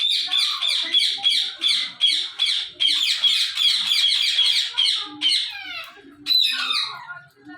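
Parrot squawking in a rapid run of harsh, repeated calls, about three a second, breaking off about five seconds in, followed by a few more separate squawks.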